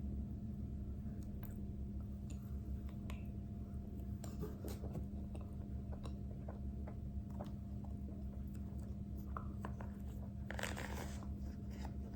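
A person eating, with small bites, crunches and chewing clicks. A louder crunch comes about ten and a half seconds in, over a steady low hum.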